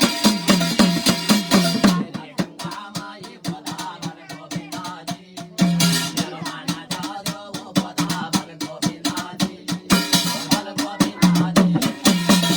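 Jagar folk music with quick, even drum strokes that drop out twice, leaving lighter clicking percussion, before the drumming returns near the end.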